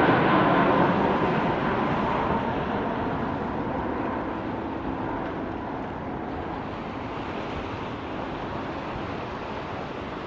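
Airbus A330 jet airliner's engines: a steady rushing noise with a faint whine, slowly fading away.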